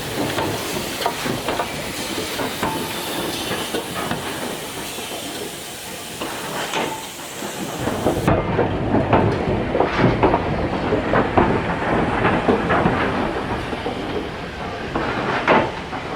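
BR Standard steam locomotive hissing steam, then, after an abrupt change about eight seconds in, running louder with irregular metallic clanks.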